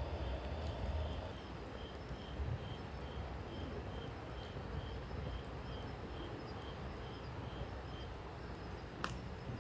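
Campfire burning, with one sharp crackle near the end. A steady high chirping repeats about four times a second over it and stops shortly before the crackle.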